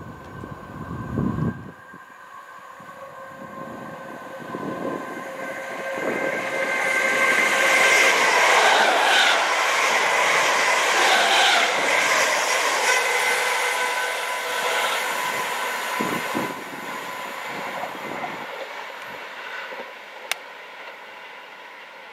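Electric multiple-unit passenger train passing close along the platform: a rush of wheels on rail and air that builds, is loudest as the carriages go by about eight to twelve seconds in, then fades as the train draws away. A brief low thump sounds about a second in.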